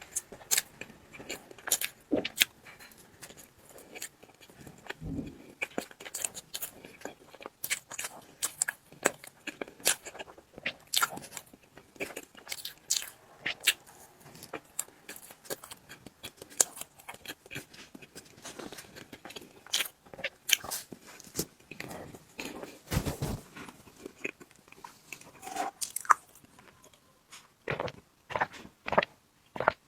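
Close-miked eating sounds of soft tiramisu cake: chewing and wet mouth noises made up of many quick, irregular sharp clicks and smacks.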